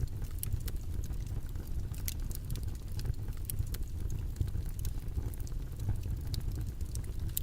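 Steady background noise, heavy in the low end like a rumble, with scattered faint clicks through it.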